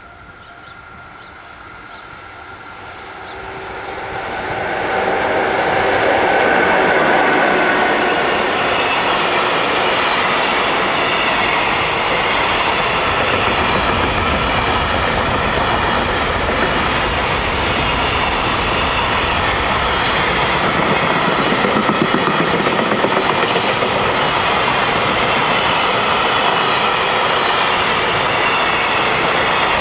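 JR Freight EF66 electric locomotive hauling a freight train: it grows louder over the first five seconds or so as it approaches, then gives a steady loud rumble and wheel clatter as the train goes by.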